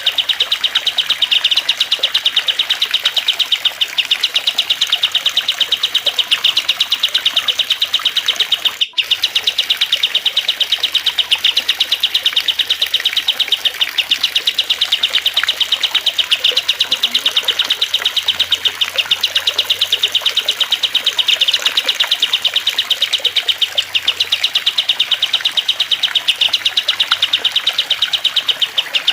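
Small songbirds chirping and trilling in a rapid, unbroken stream of high notes, mixed over trickling water, as a looped song-training (masteran) recording. The sound drops out for a split second about nine seconds in.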